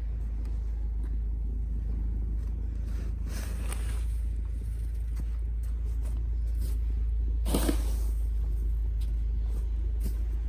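Steady low rumble, with a short noisy sound about three and a half seconds in and another about seven and a half seconds in.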